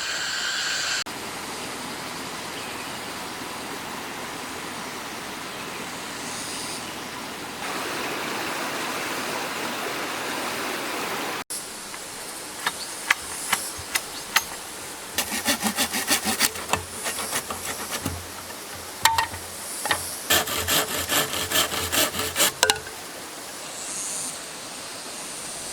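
Hand woodworking on wood: a steady scraping, rasping sound of a tool working the wood, then after a break a run of quick clicks and taps in clusters.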